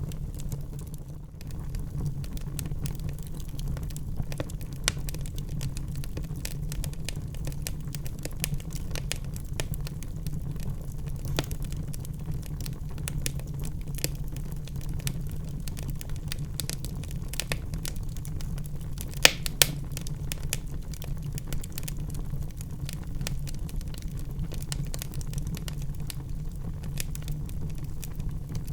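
Wood fire burning in a fireplace: a steady low rumble of flames under frequent small crackles, with two louder pops about two-thirds of the way through.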